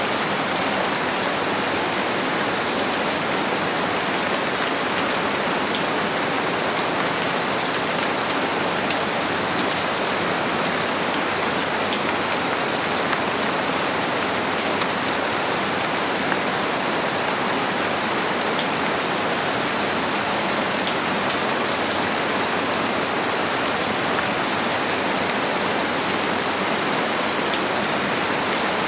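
Steady rain falling on surfaces, with many fine pattering drops and an even hiss. It does not swell or fade, and there is no thunder.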